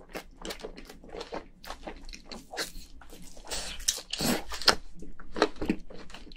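A person chewing and biting cooked crayfish meat: a quick run of wet mouth clicks and smacks, louder and noisier around the middle.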